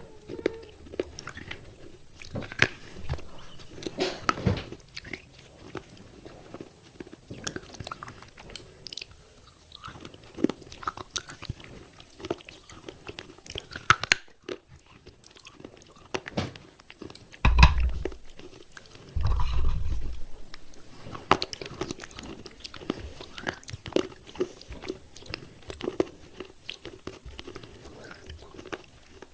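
Close-up biting and chewing of thick broken fired-clay pot pieces: irregular sharp cracks and crunches as the shards break and grind between the teeth. Two loud, deep thumps come a little past halfway, a second or two apart.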